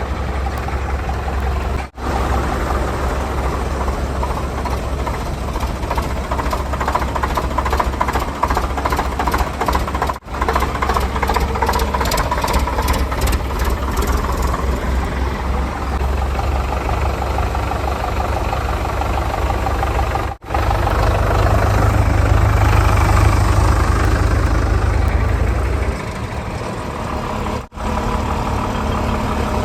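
Diesel engines of heavy earthmoving machinery (a backhoe loader and trucks) running steadily with a rattly knock, louder and deeper for several seconds past the middle. The sound drops out abruptly four times where clips are spliced.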